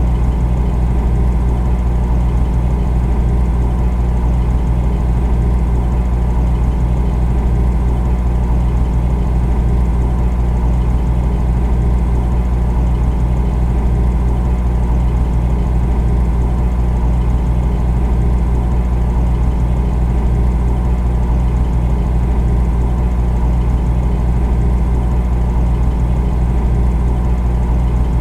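Refrigerator running: a steady, deep, unchanging hum.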